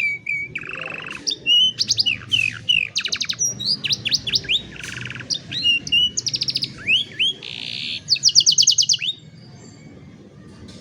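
Domestic canary singing: fast trilled rolls of rapidly repeated notes alternating with swooping whistles and short chirps. The song stops about nine seconds in, leaving a low background hum.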